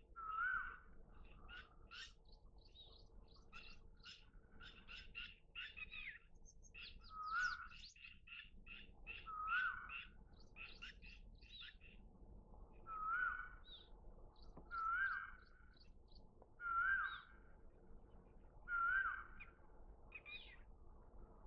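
Birds calling: one loud, short call with a rising hook, repeated about every two seconds with a longer gap in the middle, over a busy chorus of quick, high chirps from other birds.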